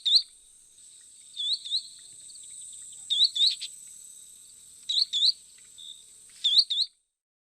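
Sandpiper calling: groups of two or three quick, high, hooked notes repeated about every second and a half, five times. A steady high insect buzz runs underneath, and both stop together near the end.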